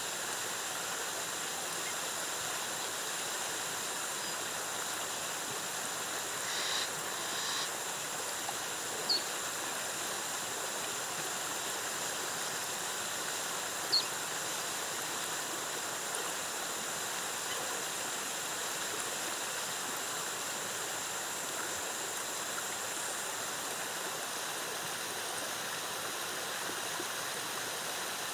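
Rainforest waterfall: cascading water making a steady, even rush. A few brief high chirps stand out over it, about a third and halfway through.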